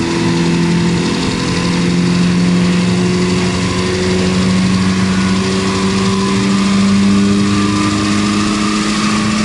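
Mazda 3's 2.0-litre Skyactiv-G four-cylinder petrol engine pulling under load on a chassis dynamometer during a power run. Its note rises slowly and steadily as the revs climb.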